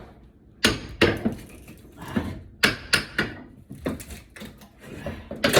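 Wooden baseboard trim being pried and knocked off a wall with a hand tool: a series of irregular sharp wooden knocks and cracks, with scraping between them.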